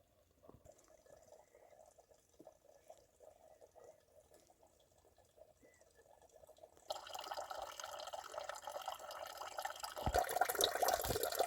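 Water pouring, starting suddenly about seven seconds in after a faint stretch and getting louder near the end.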